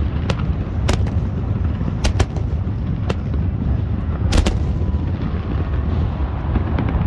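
Fireworks exploding: several sharp cracks over a continuous deep rumble of booms, the cracks stopping after about four and a half seconds.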